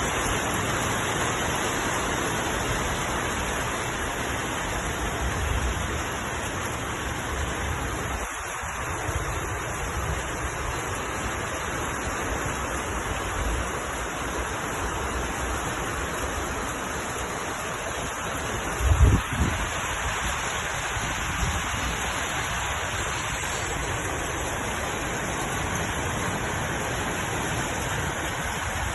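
Heavy rain pouring down in a steady, dense hiss. A brief low thump stands out about two-thirds of the way through.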